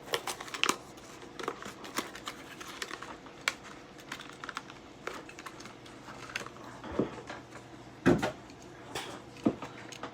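A Hot Wheels blister pack being opened by hand: irregular sharp clicks and crackles of stiff plastic and card as the die-cast toy car is worked out of the package.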